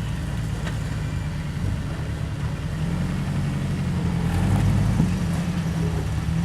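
Off-road rig's engine running at low revs while crawling, working a little harder about halfway through, with a single sharp knock about five seconds in.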